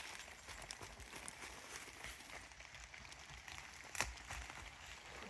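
Faint footsteps and rustling of brush and undergrowth, with scattered small crackles and one sharper click about four seconds in.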